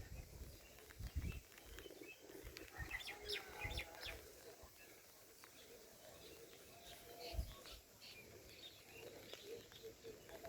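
Faint bird chirps over quiet outdoor ambience, with a few low thumps such as wind on the microphone.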